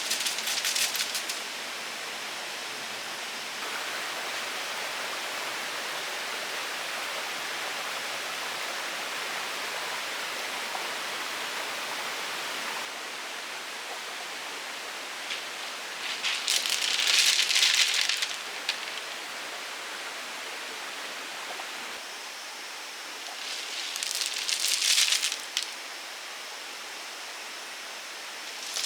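Steady hiss of rain falling in the forest, broken three times by short bursts of close rustling.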